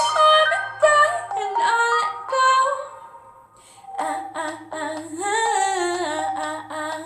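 Female voice singing a wordless, gliding melody over a pop backing track, with a brief lull about three seconds in.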